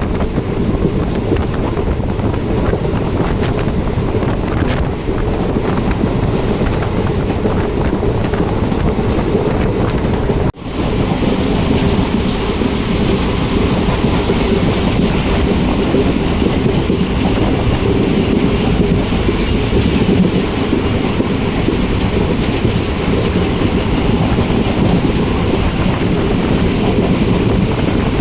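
Passenger train coach running along the track: a steady loud rumble with the wheels clattering over the rails, broken once by a brief dropout about ten seconds in.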